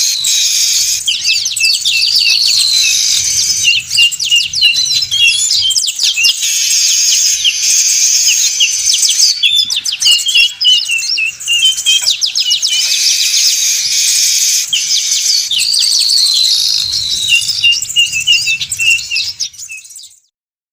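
A flock of manyar weaver birds chattering noisily, with dense, fast, buzzy calls overlapping without pause. The calls stop abruptly near the end.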